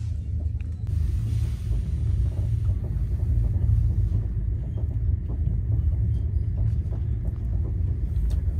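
Steady low rumble of a moving passenger train, heard from inside an air-conditioned sleeper coach.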